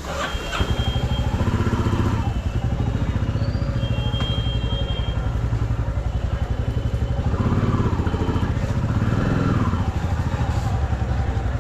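Motorcycle engine on the move, getting louder about half a second in, then rising and falling in pitch twice as it is throttled up and eased off.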